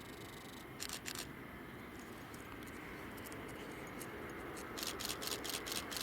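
Steady outdoor background rumble with a faint steady high whine, broken by short scratchy rustles: two about a second in and a quick run of five or six near the end.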